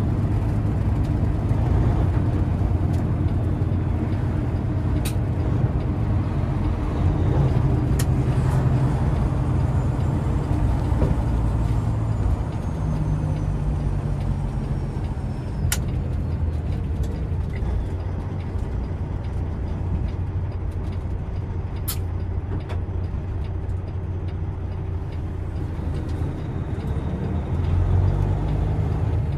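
Peterbilt semi truck's diesel engine running steadily with road noise, heard from inside the cab while driving; the engine's pitch shifts a few times, and a few brief sharp clicks sound over it.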